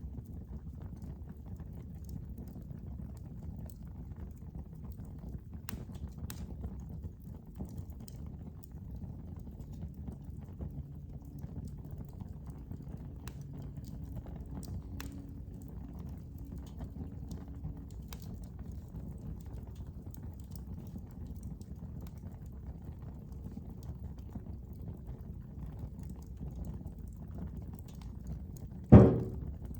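Wood fire burning in a fireplace: a steady low rumble with sparse, faint crackles, then one sudden loud snap near the end.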